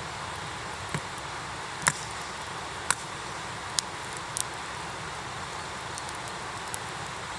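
Campfire wood burning, with a sharp crackle or pop every second or so over a steady hiss.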